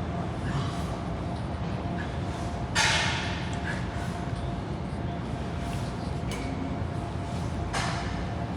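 Gym background noise: a steady low hum with a faint steady tone, broken by a short sharp noisy burst about three seconds in and a weaker one near the end.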